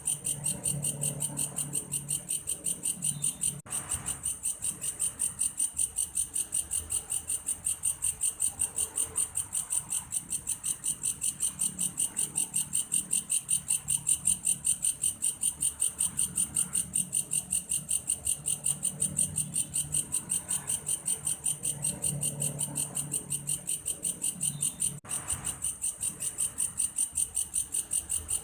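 Belalang kayu, a large grasshopper, calling in a steady, high-pitched run of rapid, evenly spaced pulses, like a cricket's chirping. The call breaks off for a moment twice.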